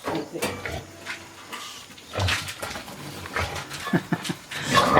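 Farm animals making short grunts and snuffling noises, with a few brief squealing or whimpering calls about four seconds in.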